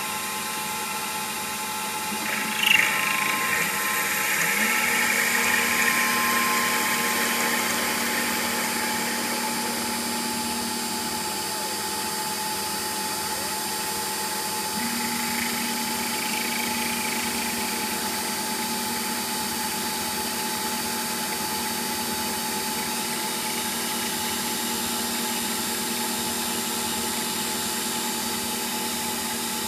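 CNC lathe running while turning a nozzle holder: a steady machine hum with several fixed tones. A hissing cutting noise sets in with a sharp onset about three seconds in, runs for several seconds, and returns briefly around fifteen seconds in.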